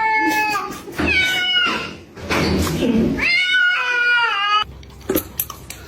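A cat meowing in long, drawn-out, high-pitched calls that fall slightly in pitch. The last and longest call cuts off abruptly about four and a half seconds in.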